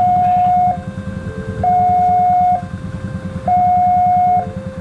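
Two-tone electronic warning alarm switching between a higher and a lower note about every second, over a fast low pulsing rumble.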